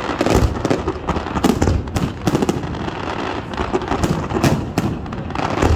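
Fireworks display in full barrage: aerial shells and low-level effects going off in irregular, overlapping booms and bangs, a few a second, over a continuous low rumble.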